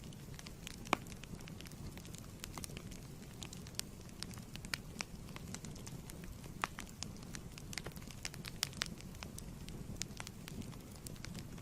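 Fireplace wood fire crackling: a steady low rumble of flame with irregular sharp pops and snaps throughout, one louder pop about a second in.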